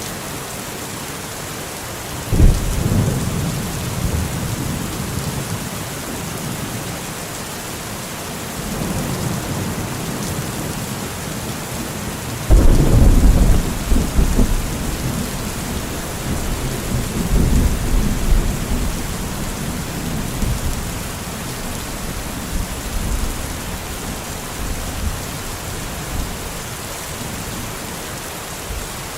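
Steady heavy rain with two thunderclaps: a sharp crack about two seconds in and a louder one near the middle, each followed by several seconds of low rumbling thunder.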